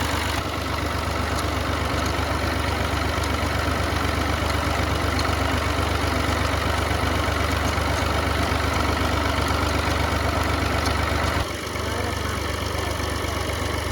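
An engine idling steadily with an even, low, fast pulse, dipping briefly about eleven seconds in and then running on.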